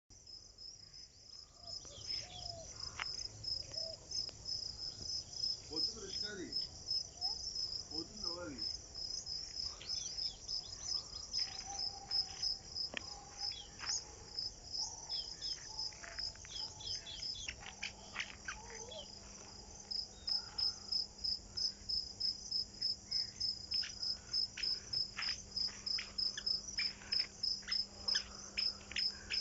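A steady, high-pitched rhythmic chirping of insects, about two pulses a second, with short bird calls scattered over it. A faint low hum joins about halfway through.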